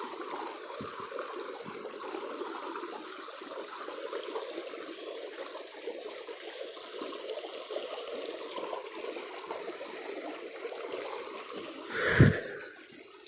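Stream water flowing and trickling steadily, with one sudden loud thump near the end.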